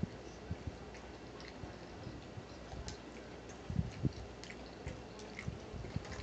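A person chewing a mouthful of Philly cheesesteak sandwich, with irregular small clicks and soft thumps.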